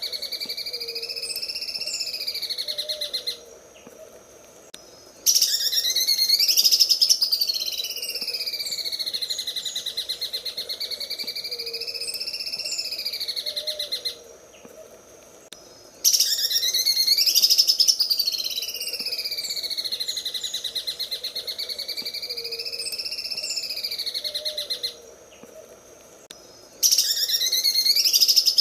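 Cucak ijo (green leafbird) singing its 'sewing machine' song: a fast, rattling trill of rapid pulses whose pitch swings up and down. It comes in long phrases of about nine seconds, broken by two-second pauses, and each phrase repeats the same pattern.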